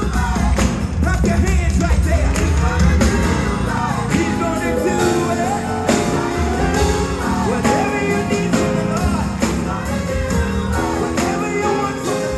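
Live gospel music: a choir singing over a band with drums and a heavy bass line.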